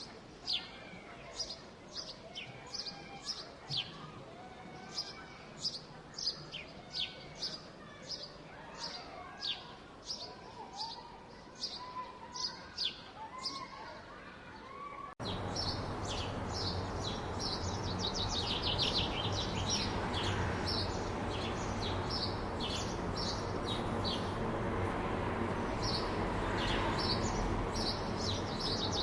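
Small birds chirping and tweeting with quick repeated high notes, over faint distant voices. About halfway through the background switches abruptly to a louder, steady low hum of city noise, with the birds still chirping over it.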